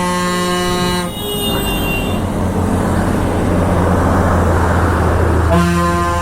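A vehicle horn holds one steady tone and cuts off about a second in. Engine rumble and road noise follow, and the horn sounds again near the end.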